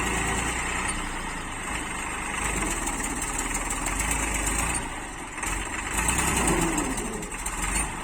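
Tractor engine running steadily, a little louder about six seconds in.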